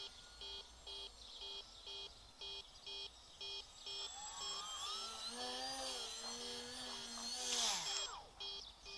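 Electronic beeper sounding a steady alarm, about two short beeps a second. A few seconds in, rising and falling whines join it, and a brief rushing noise near the end is the loudest moment.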